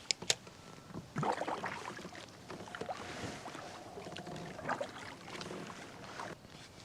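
Water splashing and sloshing around a kayak, in irregular bursts, after two sharp clicks at the start.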